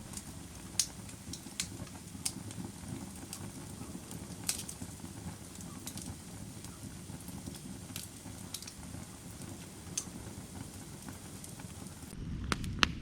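Firewood burning: a steady low rush of flames with sharp crackles and pops from the wood, coming irregularly about once a second, with a cluster of louder pops near the end.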